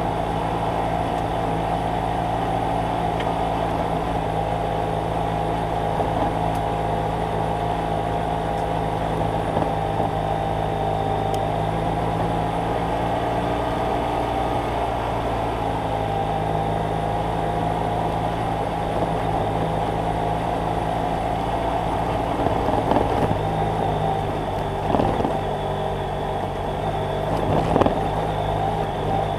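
BMW F800GS Adventure's parallel-twin engine running steadily while riding, at a fairly constant pitch. A few sharp knocks come through in the last several seconds.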